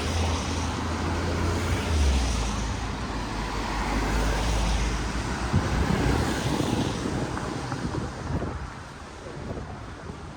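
A motor vehicle's low engine drone that weakens after about two seconds, over a steady hiss of street traffic and wind on the microphone.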